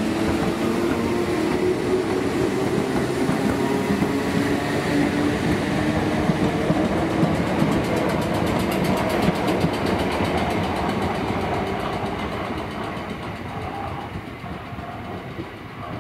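Southern electric multiple-unit train running on the rails, a dense wheel-and-rail rumble with a low steady hum in it, dying away over the last few seconds.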